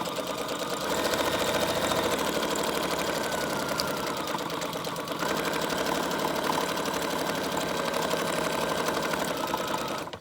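Sewing machine running fast, stitching through layered paper and cardstock scraps; it eases briefly about halfway and stops suddenly near the end.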